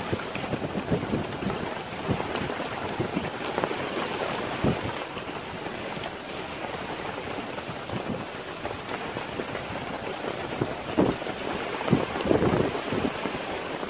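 Heavy storm rain pouring down, with gusts of wind; it grows louder near the end.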